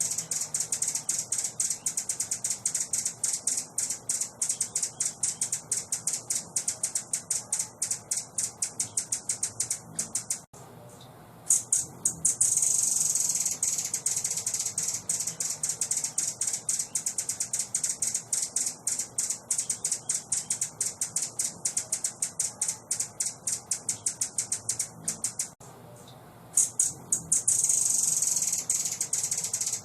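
A songbird's shrill, high-pitched chattering song: a fast run of ticking notes, about four a second, over a continuous high trill. It breaks off twice for a second or so and starts again, as a looped training-song (masteran) recording does.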